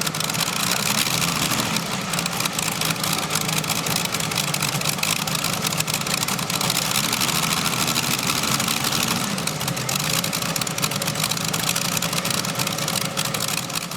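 Modified pulling tractor powered by World War II-era aircraft engines, running hard and steady under load as it drags the weight-transfer sled down the track.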